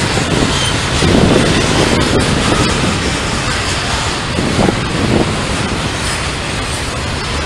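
Norfolk Southern freight train passing, a steady rumble of wheels on rail with louder swells about a second in and again near five seconds, and wind buffeting the microphone.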